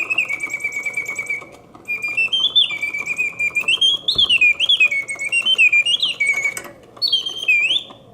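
The mechanical bird of an early-1950s German singing birdcage sings on its bellows-driven whistle: a warbling, trilling song whose notes glide up and step back down, broken by two short pauses. Under it is the faint, even ticking of the clockwork mechanism, which is running smoothly.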